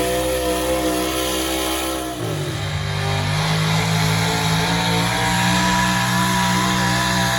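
A pulling truck's engine running hard, its note dropping about two seconds in and settling into a lower, steady run as the engine eases off.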